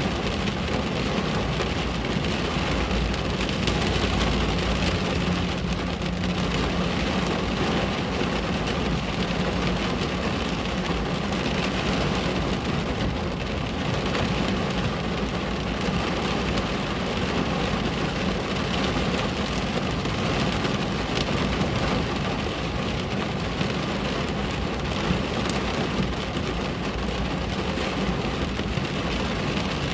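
Steady rain pattering on a window, an even hiss with no break. A low rumble swells under it a few seconds in.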